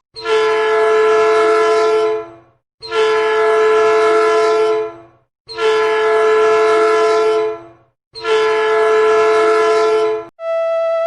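A multi-note chord horn sounding four long, steady blasts of about two seconds each, with short gaps between them.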